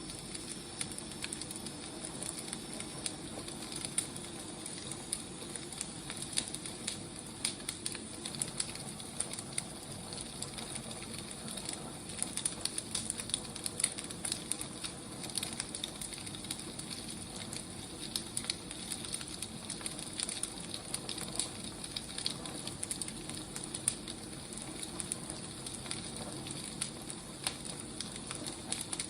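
Firewood burning, crackling and popping at irregular moments over a steady low hiss.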